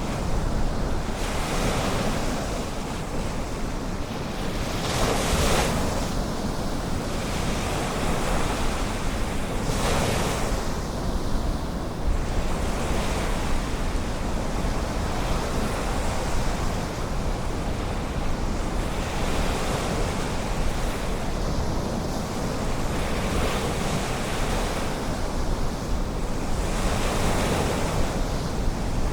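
Ocean surf, waves washing in and breaking in repeated surges every few seconds, with a low rumble of wind on the microphone.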